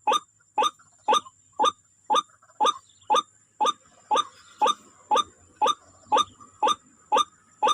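White-breasted waterhen (wak-wak bird) calling: a short harsh note repeated in an even rhythm, about two a second.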